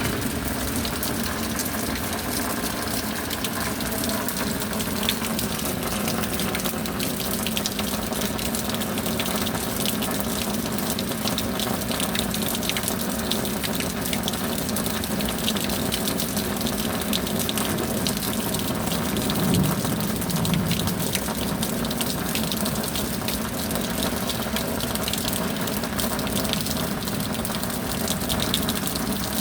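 Steady rain with gushing water, a dense even hiss flecked with countless drop hits, swelling briefly about two-thirds of the way in.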